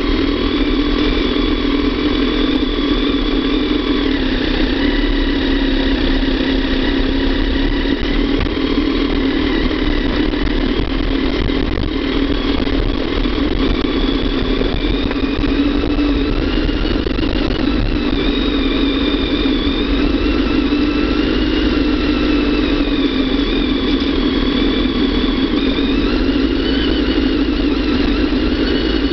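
Kawasaki ZX-10R's inline-four engine running steadily as the bike rides downhill, its pitch drifting gently up and down.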